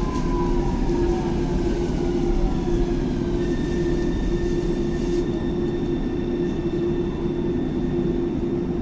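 Thessaloniki Metro train slowing as it arrives at the terminal station: a steady rumble and hum of running gear, with a faint electric motor whine falling in pitch over the first two seconds and a faint high tone from about three and a half seconds in.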